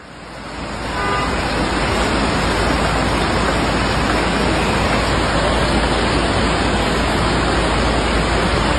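Steady rushing water noise, heavy and even, fading in over the first second or so.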